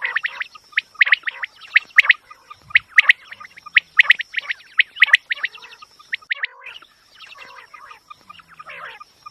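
Quail calling: rapid runs of short, sharp chirping notes, several a second, thinning into softer, quieter warbling notes in the last few seconds. A faint steady high-pitched tone runs alongside.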